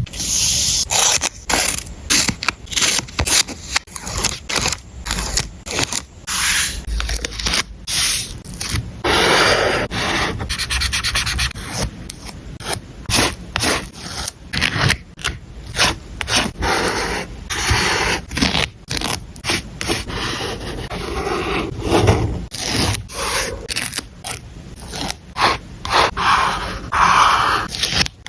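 Close-miked paper and stationery being handled on a journal page: a run of short scraping and rubbing strokes, with longer rasping passes about nine seconds in and again past twenty seconds.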